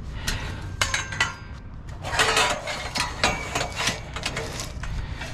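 Pieces of scrap metal clattering and clinking as they are handled and shifted, a run of sharp knocks with a brief metallic ring about a second in.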